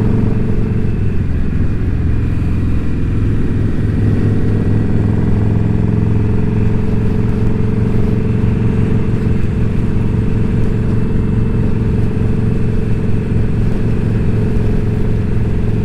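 Indian Scout Bobber V-twin motorcycle engine running steadily at cruising speed, with an even, unchanging note.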